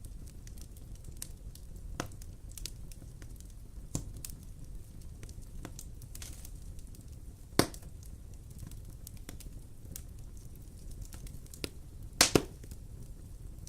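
Wood fire burning in a fireplace: a low steady rumble with scattered crackles and sharp pops, the loudest about halfway through and a quick pair near the end.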